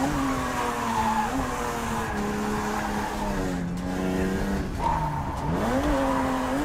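Car engine heard from inside the cabin, driven hard through corners: its pitch sinks and then climbs steeply near the start and again about five seconds in, holding steady in between, with tyre squeal around the second climb.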